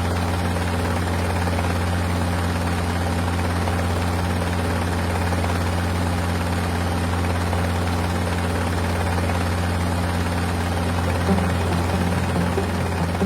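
Mi-26 heavy-lift helicopter running: a steady, unbroken low drone of rotors and turbine engines.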